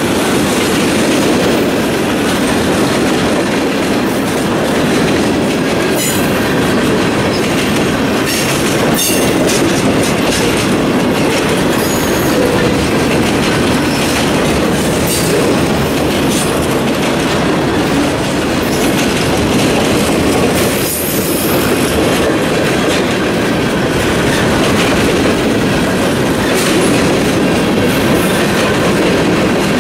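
Freight cars rolling past close by: a steady loud rumble of steel wheels on rail, with wheel clatter and scattered sharp clicks.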